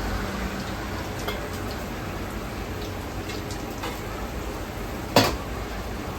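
Food sizzling steadily in hot fat, with a few light clinks of utensils and one sharp, loud knock about five seconds in.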